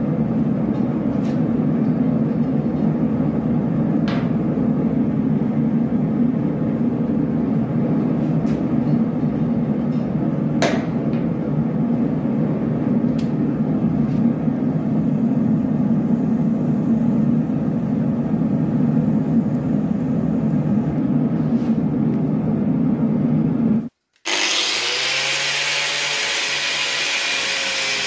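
Steady machine noise with a few sharp clicks. Near the end, after an abrupt cut, a power tool runs with a bright hiss and a whining tone that dips and recovers in pitch, like grinding metal.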